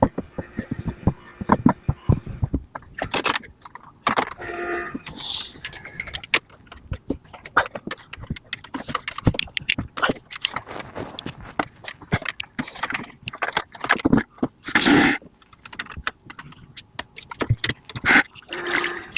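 Irregular knocks, clicks and scrapes of parts being handled while an air conditioner is taken apart or put back together, with a louder knock about fifteen seconds in.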